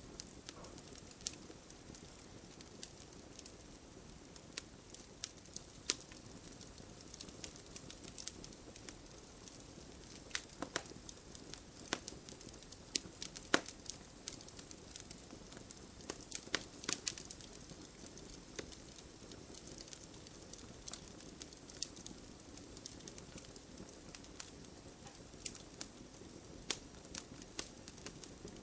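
Wood fire crackling, with irregular sharp pops and snaps over a soft steady hiss of burning.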